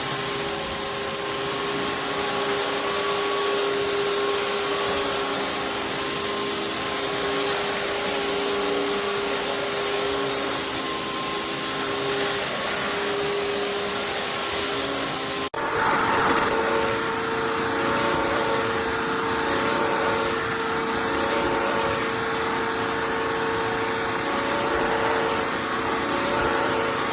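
Bissell CrossWave Cordless Max wet-dry vacuum mop running with a steady motor whine and whir. About halfway through there is an abrupt break, and the hum resumes at a slightly higher pitch.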